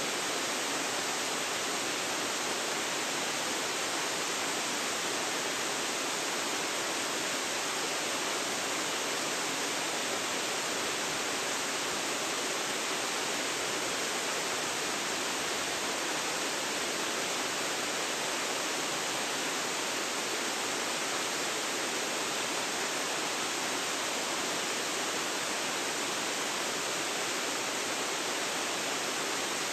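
Waterfall: water falling and splashing in a steady, unbroken rush with no separate events.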